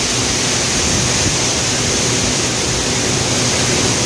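Heavy rain falling, a dense, steady hiss without break.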